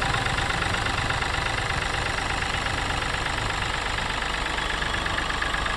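Mahindra TUV300's three-cylinder diesel engine idling steadily.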